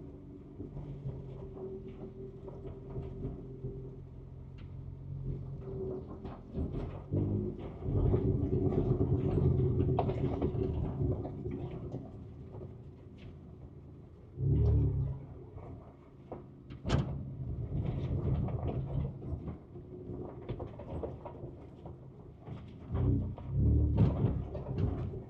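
Ford Ranger Raptor's twin-turbo V6 heard from inside the cab, running at low trail speed with several short surges of throttle. Scattered knocks and rattles from the truck working over rough ground, one sharp knock about midway.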